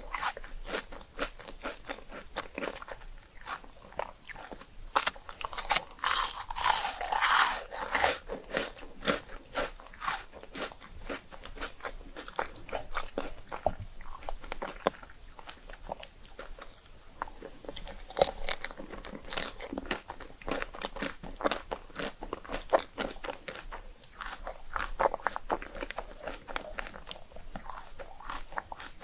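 Rice cakes being bitten and chewed: many rapid, irregular crisp crunches, thickest about five to eight seconds in, then steadier chewing.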